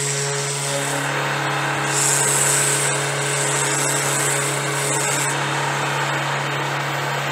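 Electric random orbit sander running upside down in a bench-mounted stand, with a steady motor hum, while a piece of wood is pressed against the sanding disc to round over its edge; the hiss of abrasive on wood comes and goes as the piece is worked, strongest about two to five seconds in.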